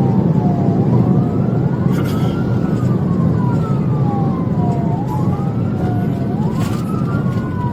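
Police car sirens wailing in slow rising-and-falling cycles, two wails out of step with each other, over a loud steady rumble of engine and road noise from a patrol car at pursuit speed.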